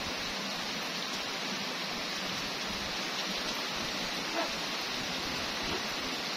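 Steady rain falling on the ground.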